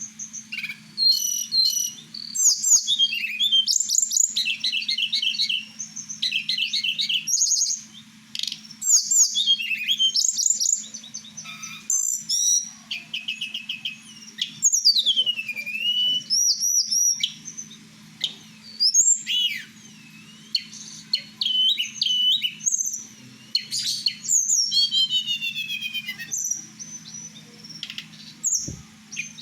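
A pet tledekan flycatcher singing a long, varied song of quick high trills, chirps and falling whistles, in phrases of a second or two with short pauses between them. A faint steady low hum runs underneath.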